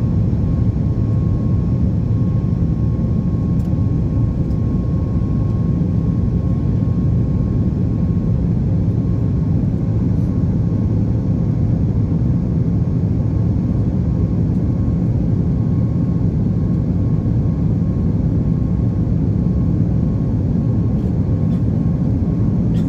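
Jet engine noise from a Boeing 737 MAX 8's CFM LEAP-1B turbofans during takeoff. It is a steady, deep rush with a faint constant whine above it, unchanging throughout.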